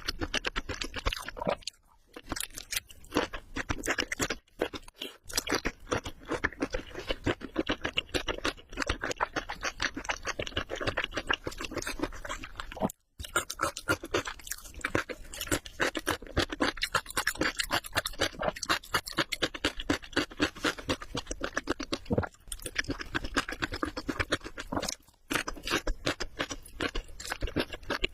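Close-up crunchy chewing of crispy fried prawns, with a dense, irregular crackle and a few brief breaks.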